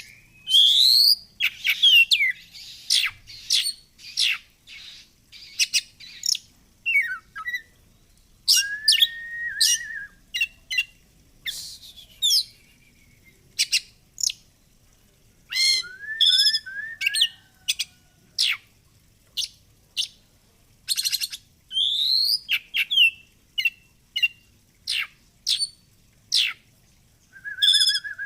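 Oriental magpie-robin (kacer) in full song: a rapid string of short, varied phrases of whistled sweeps, quick trills and harsh chattering notes, with brief pauses between them.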